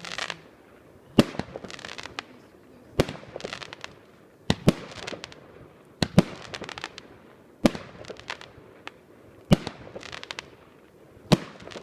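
Fireworks going off: about seven sharp bangs, one every one and a half to two seconds, each followed by a brief crackle.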